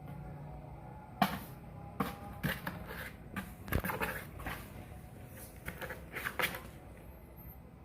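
Kittens play-fighting: an irregular run of scuffles, knocks and scratches, the sharpest about a second in, with no meowing.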